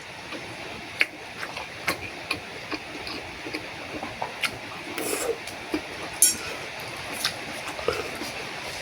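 Eating a bowl of noodles: irregular light clicks and knocks of utensils against the bowl, with chewing.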